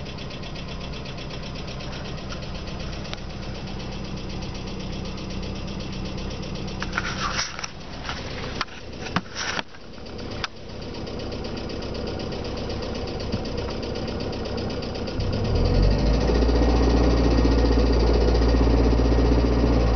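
Car engine running at idle after a cold start, with the knocking, ringing noise that the owner suspects comes from the timing-belt rollers. A few sharp clicks come about halfway through, and the engine sound grows much louder and deeper about fifteen seconds in.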